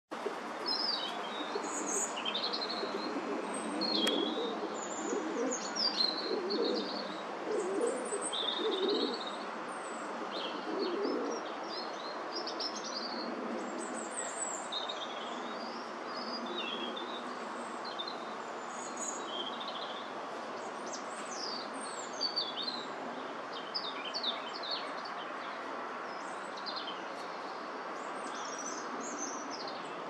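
Wild birds chirping in many short, high calls scattered throughout, over a steady background hiss. A few louder low, muffled sounds come in the first ten seconds or so.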